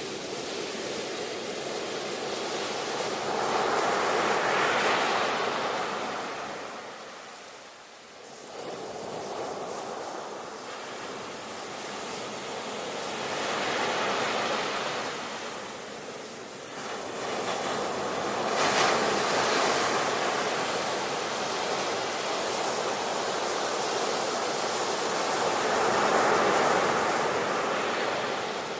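Ocean surf: waves breaking and washing in, the rush of water swelling and fading about four times, with a short lull about eight seconds in.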